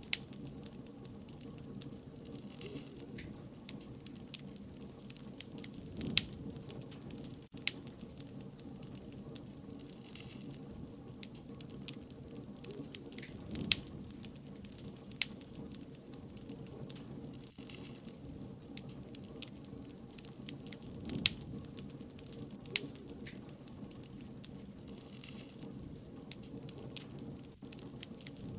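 Wood bonfire burning: a steady low rumble with frequent irregular crackles and sharp pops, a few of them much louder.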